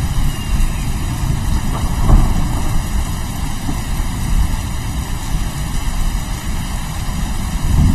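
Steady rain with a continuous low thunder rumble, which swells louder about two seconds in and again near the end.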